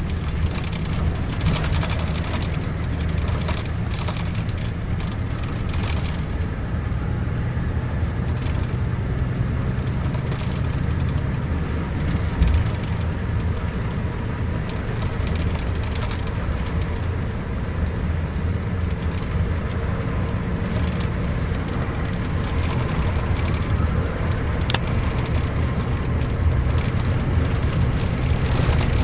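Scania K410iB double-decker coach running: a steady, deep engine and road drone whose low tone drifts a little, with one short knock about twelve seconds in.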